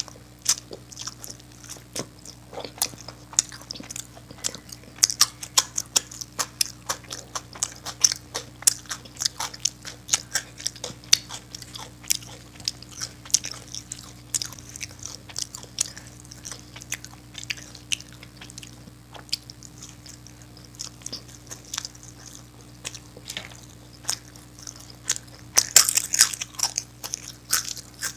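Close-miked chewing of a home-cooked Indian meal eaten with the hands: a continuous run of short, sharp mouth clicks and smacks, busier for a couple of seconds near the end.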